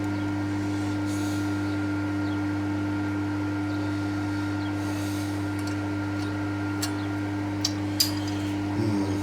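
Steady electrical hum: a low drone with a thin, higher whine above it, with two short clicks in quick succession near the end.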